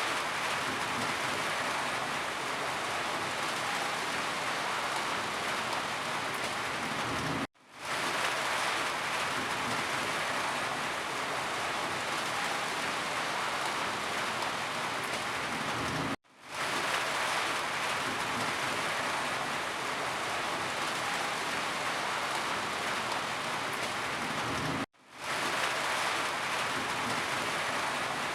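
Steady rain falling, an even dense hiss of drops. Three times, about every eight or nine seconds, it cuts out to silence for a split second and then fades back in.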